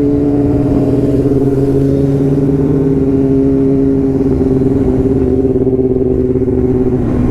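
Sportbike engine running at a steady cruise, its pitch holding nearly level and easing slightly lower in the second half, over a constant rush of road and wind noise.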